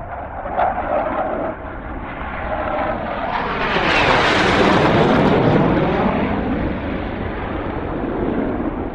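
Military jet flying past at low level: its noise swells to a loud peak about halfway through with a sweeping, shifting tone, then fades away.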